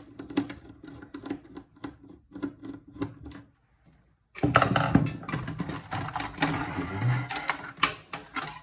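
Screwdriver turning out the last motherboard screw, a run of regular short clicks, then after a brief pause a louder clatter and scraping as the motherboard is worked free of the PC case.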